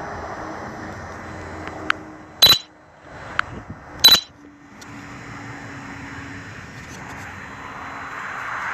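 Two loud, sharp clacks about a second and a half apart, each with a lighter click just before it, over steady outdoor background noise with a faint hum.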